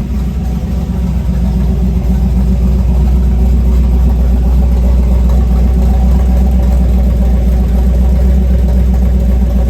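Freshly installed Chevy 350 small-block V8 with an Edelbrock carburetor idling steadily, getting a little louder over the first couple of seconds and then holding an even idle. It is running well after the carburetor swap.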